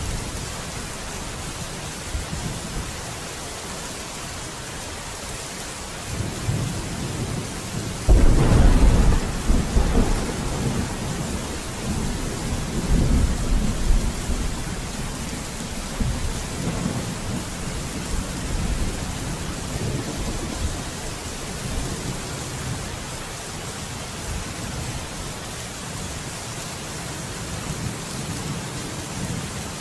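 Steady rain falling, with a clap of thunder about eight seconds in that rolls on as a deep rumble for several seconds before dying back to the rain.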